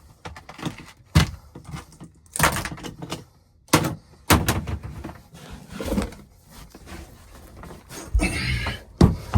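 A string of irregular knocks and thumps, about seven in nine seconds with rustling between them, the sharpest near the end: someone handling equipment, panels and tools at close range.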